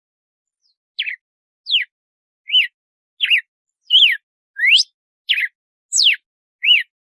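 Red-cowled cardinal (galo-de-campina) singing a phrase of nine short, clear whistled notes, one about every 0.7 s, starting about a second in; each note is a quick slur, some rising and some falling.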